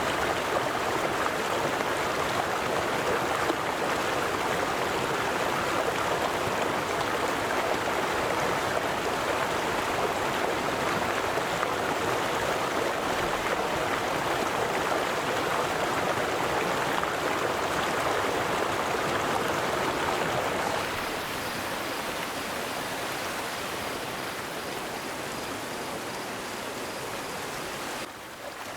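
A river flowing, a steady rushing of water. About two-thirds of the way through it turns a little quieter and thinner, and it dips briefly near the end.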